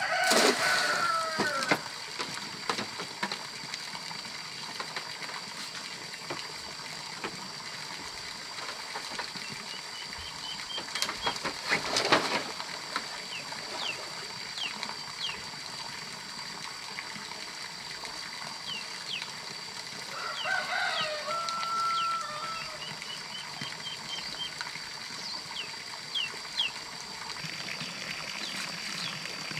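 Farmyard ambience: a rooster's crow trailing off in the first second, then scattered short bird chirps over a steady high insect whine. A loud knock sounds near the middle, and a brief fowl call comes about two-thirds through.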